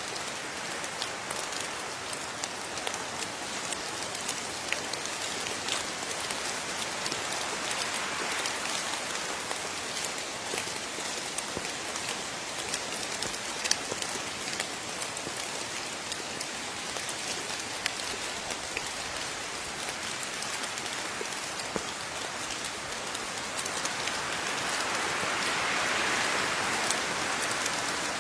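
Steady rain falling, an even hiss with many separate drops ticking on a surface, growing a little heavier near the end.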